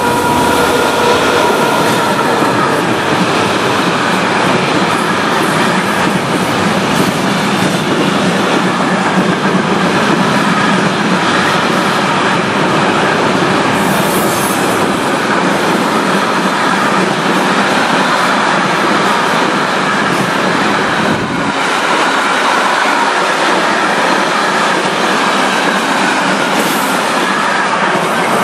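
Electric locomotive hauling a long container freight train passing close by: a steady, loud run of wheels on the rails and wagons clattering past. A thin whine sounds in the first few seconds.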